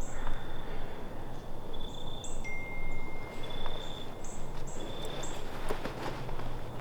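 Outdoor ambience with a bird calling over and over in short, high notes, one held whistle-like note partway through, and a few light rustles or steps near the end.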